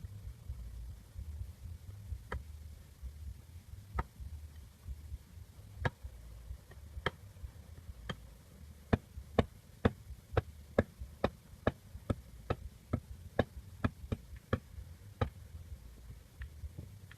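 A series of sharp knocks or taps: a few spread out at first, then a quick run of about two a second for several seconds, then a couple more near the end. A low steady hum lies underneath.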